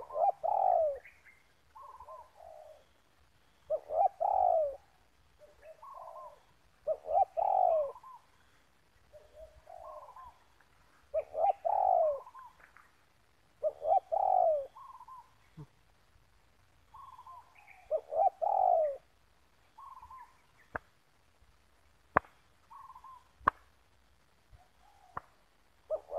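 Spotted doves cooing: loud repeated coo phrases every three to four seconds, with softer coos between them, and a few sharp clicks in the last third.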